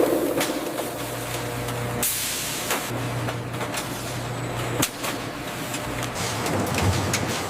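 Machinery running with a steady low hum, scattered clicks and knocks, and a short hiss about two seconds in.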